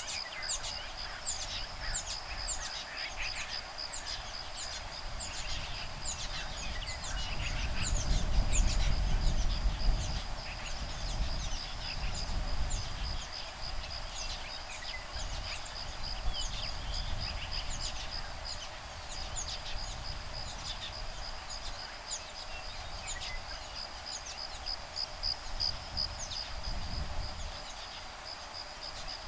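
Woodpeckers, nestlings and adults, calling back and forth in many short high chirps over a steady high insect trill. A gust of breeze rumbles on the microphone about a third of the way in, and again briefly near the end.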